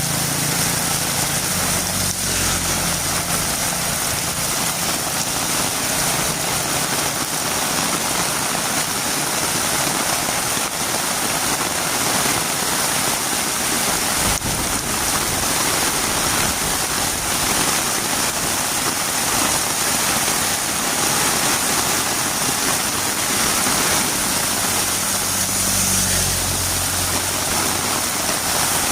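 Heavy rain falling steadily, an even hiss with no breaks. A low engine hum sounds under it in the first few seconds and again near the end.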